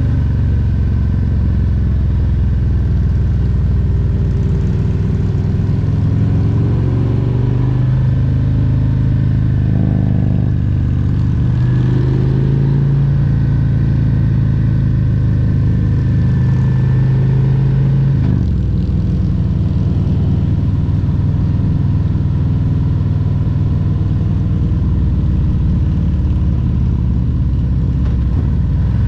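Harley-Davidson Road Glide Special's Milwaukee-Eight 114 V-twin engine running on the road, its pitch rising and easing with the throttle, then dropping suddenly about eighteen seconds in.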